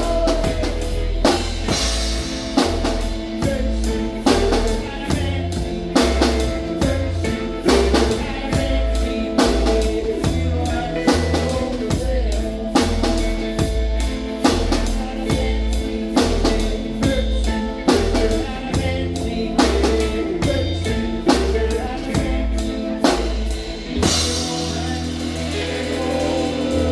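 Live band playing a song with a steady drum-kit beat over bass and other instruments. Near the end the beat drops out and a guitar carries on.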